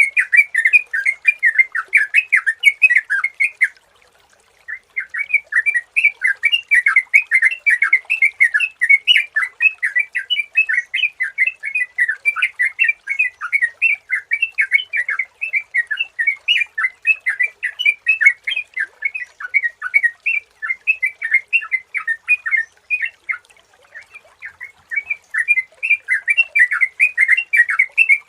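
Yellow-vented bulbul (trucukan) singing a fast, continuous run of bubbling, chattering notes, with a brief pause about four seconds in and a softer spell near the end.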